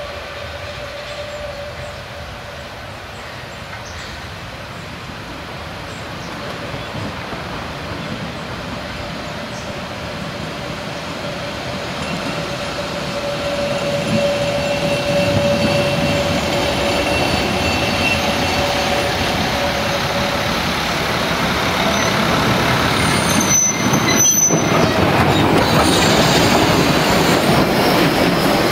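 Narrow-gauge trains running into a station: a railcar and a steam train hauled by 2-10-2 tank locomotive 99 7232, with steel wheels squealing on the curves in long steady tones. The noise grows steadily louder and is loudest near the end as the steam locomotive rolls past close by.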